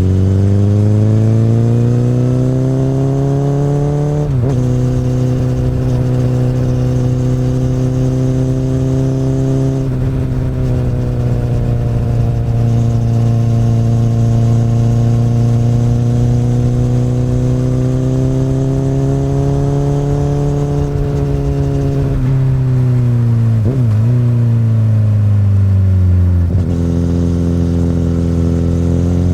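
Honda CBR1000RR inline-four motorcycle engine through an Akrapovic exhaust, under way. The revs climb and then drop sharply about four seconds in, as at an upshift. They hold fairly steady and ease through the middle, then fall away near the end with a couple of quick dips and recoveries.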